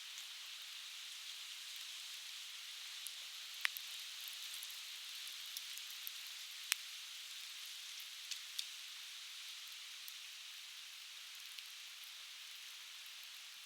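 Conifer firewood crackling in a campfire: sharp, irregular pops over a steady hiss, with the rush of a nearby stream mixed in.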